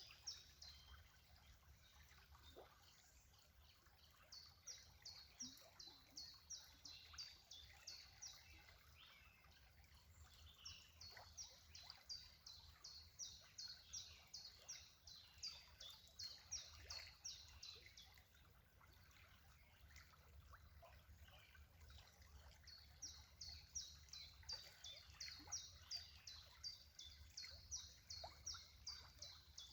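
Faint high-pitched chirps, evenly repeated at about four a second in long runs of several seconds with pauses between, over a low steady hum.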